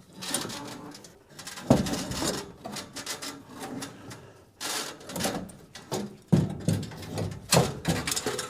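The flexible exhaust pipe on a 1950 Chevrolet stovebolt six makes a really crunchy, terrible noise as it flexes while the combined intake and exhaust manifold is lifted off. Irregular creaks and scrapes run through it, with sharp metal knocks at about two seconds, six seconds and seven and a half seconds in.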